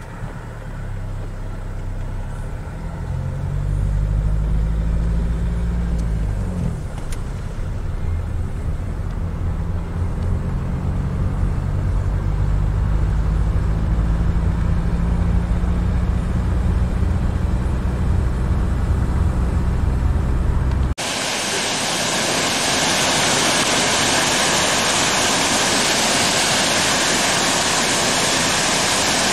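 Car engine heard from inside the cabin while driving: a low drone whose note rises, then drops back about six seconds in, and then runs steadily. About 21 seconds in it cuts abruptly to the loud, steady rush of a waterfall in high flow.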